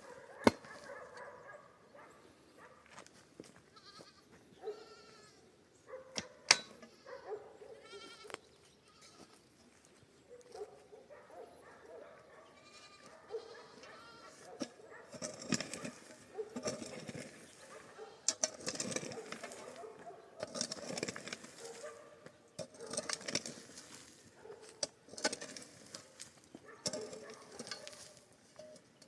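Herd livestock bleating a few times, short wavering calls, among sharp clicks and, in the second half, a run of rustling and knocking.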